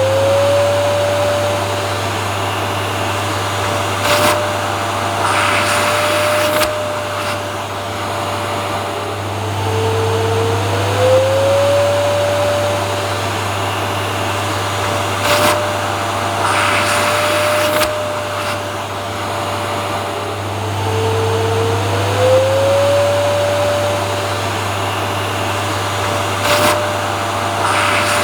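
Vacuum cleaner motor running steadily, with a low hum and a whine that rises briefly in pitch and then holds. A few brief knocks come in between. The same stretch repeats about every 11 seconds, a loop.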